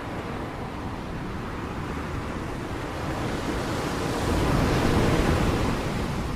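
Ocean waves breaking on a shore: a steady wash of surf, with one wave building about halfway through, breaking loudest a little past the middle, then easing off. Wind rumbles on the microphone.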